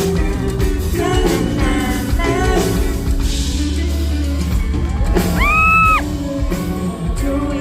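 Live band playing an upbeat pop-rock song with sung lines. About five seconds in, a fan close to the microphone lets out a loud, high-pitched scream that rises and then holds for about a second.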